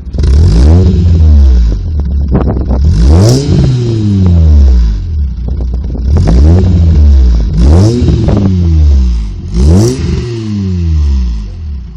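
8-valve four-cylinder engine with a Stinger 4-2-1 exhaust header, resonator and muffler can, revved about five times, each rev rising sharply in pitch and falling back toward idle.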